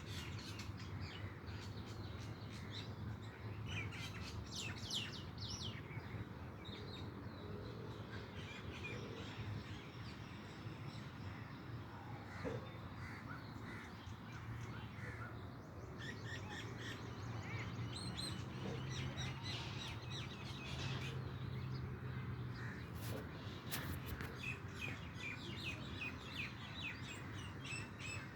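Several wild birds chirping and calling, with many quick, high calls coming in clusters, over a steady low background hum.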